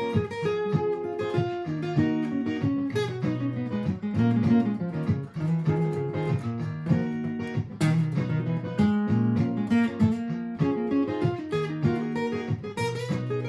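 Martin GPCPA4 acoustic guitar played through a looper pedal: a looped chord and bass part with picked single-note lines improvised over it.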